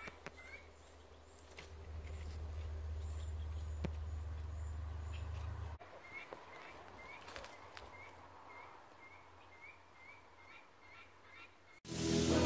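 A bird chirping the same short call over and over, about twice a second. For a few seconds in the first half a low steady rumble lies under it, and loud music cuts in just before the end.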